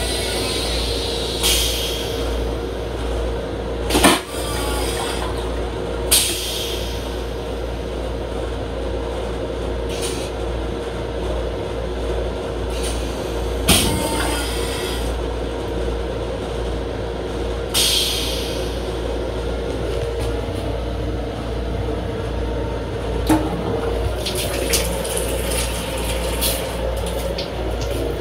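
Steady low rumble and hum of an M7 electric railcar heard inside its restroom, with a few sharp knocks and rattles.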